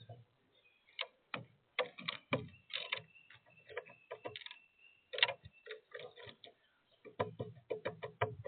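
Woodpecker pecking at sunflower seeds on a bird feeder: irregular sharp taps, coming in quicker runs near the end.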